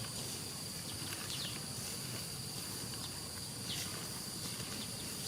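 Rural outdoor ambience: a steady high-pitched insect drone, with a few faint short chirps.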